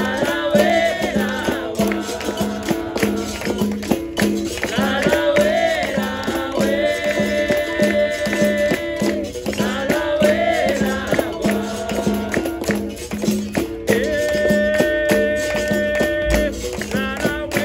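Capoeira roda music: voices singing in phrases over a steady percussion rhythm of berimbau and pandeiro.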